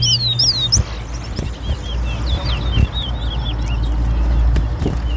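Caged towa towa (chestnut-bellied seed finch) singing rapid runs of short, looping chirps in a song competition, in two phrases about two seconds apart, over a steady low rumble.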